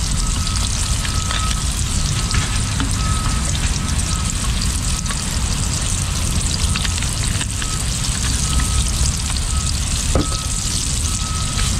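Flour-coated fish frying in hot oil: a steady sizzle dotted with fine crackles, over a low rumble.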